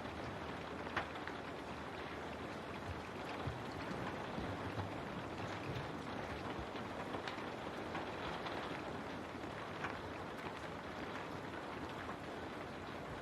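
Steady rain falling on a window, with individual drops ticking against the glass here and there.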